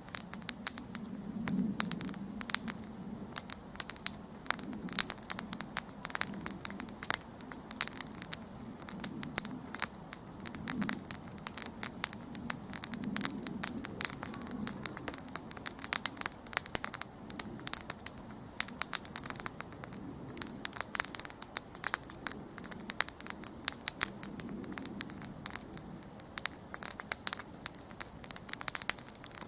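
Wood campfire crackling, with frequent irregular sharp pops and snaps over a low, uneven rumble of the flames.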